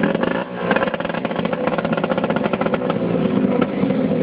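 Drag racing boat engine running loudly, its pitch briefly dipping and shifting about half a second in.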